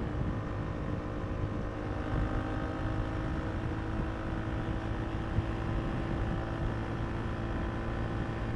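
KTM RC390's single-cylinder engine running at a steady cruise, with wind buffeting the microphone.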